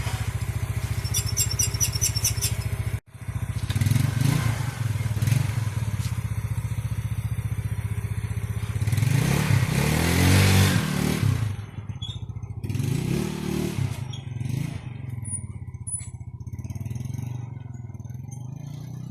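Yamaha Mio Sporty scooter's single-cylinder four-stroke engine idling, now running again after its loose intake-manifold hose was refitted. The sound drops out for an instant about three seconds in; then the throttle is blipped a few times, with the longest, loudest rev near the middle, before the engine settles back to idle.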